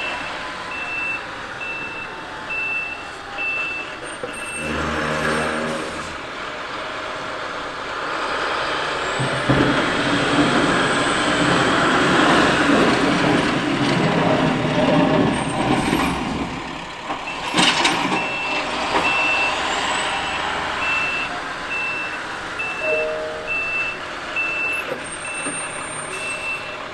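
Backup alarm of a dump plow truck beeping steadily as it reverses, over the truck's running engine. In the middle the beeping stops and a louder stretch of truck noise takes over. A brief sharp hiss comes about two-thirds through, just before the beeping starts again.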